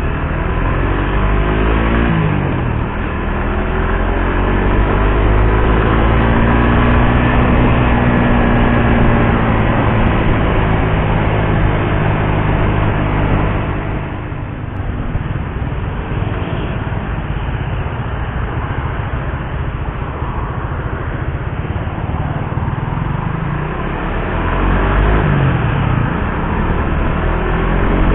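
Suzuki GSX-R150's single-cylinder engine pulling on the road; its revs drop sharply and climb again about three seconds in and near the end, and hold steady in between.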